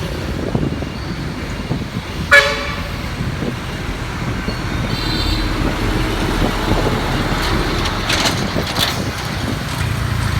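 Road traffic heard from a moving motorbike: a steady low engine and road rumble, with one short, loud vehicle horn toot about two seconds in.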